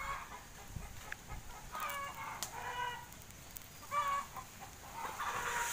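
A bird calling outdoors: a longer pitched call about two seconds in and a short one about four seconds in.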